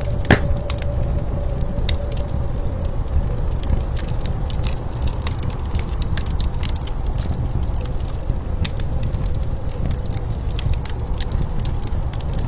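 Wood fire crackling, with scattered sharp pops and one louder pop just after the start, over a steady low roar of blizzard wind. A faint steady tone sits under it and fades out during the first few seconds.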